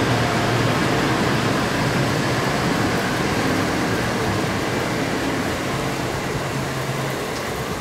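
N700-series Shinkansen train running slowly along the track in snow, a steady rumble and rushing noise that slowly fades.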